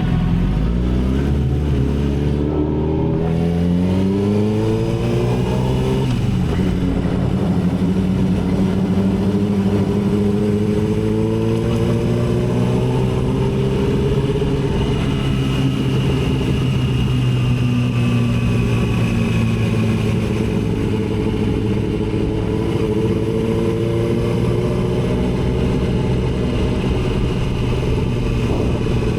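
Yamaha R6's inline-four engine pulling hard, its pitch climbing over the first few seconds, a gear change about six seconds in, then running at a steady cruise with the pitch slowly rising and falling.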